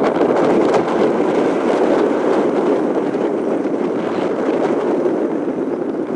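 Jet engine noise from a landing Airbus A350-941 with Rolls-Royce Trent XWB engines: a loud, steady rumble that eases slowly.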